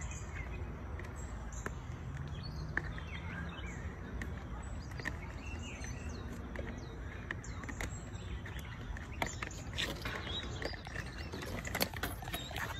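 Outdoor ambience: a steady low background noise with scattered faint bird chirps, and a cluster of sharp taps near the end.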